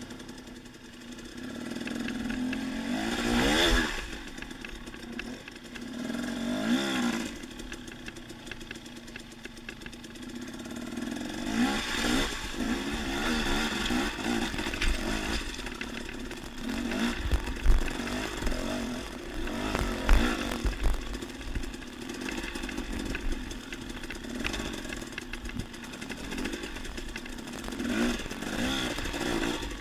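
Dirt bike engine running and revving up and down again and again, its pitch rising and falling as the bike is ridden up a rocky single-track trail.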